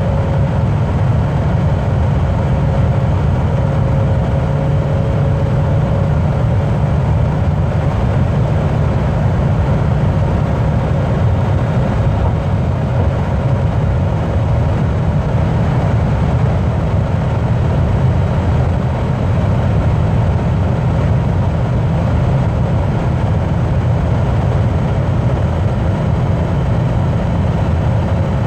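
A car cruising at motorway speed, giving a steady low drone of road and engine noise.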